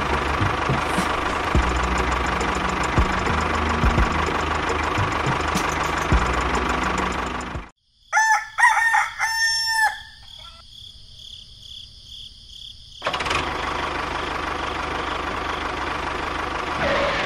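A steady engine-like running sound cuts off suddenly about eight seconds in. A rooster then crows once, a long call lasting about two seconds. About three seconds later the steady running sound starts again.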